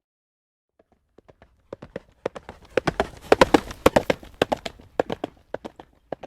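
A horse's hooves clip-clopping on a hard road at a trot: rapid hoofbeats that start faintly about a second in, grow loudest in the middle, then fade away again, as the horse comes close and passes.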